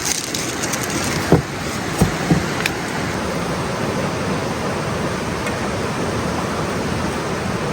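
Steady rushing noise of running water, with a few short knocks about a second and a half and two seconds in.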